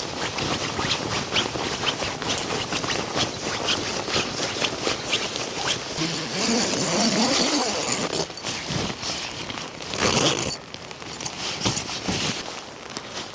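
Rain pattering on a tent, with louder rustling and scraping of things being handled about six seconds in and again about ten seconds in.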